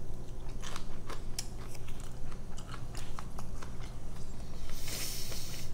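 Close-miked chewing and biting of a fried chicken wing: a run of short, wet mouth clicks and smacks, with a brief hiss about five seconds in.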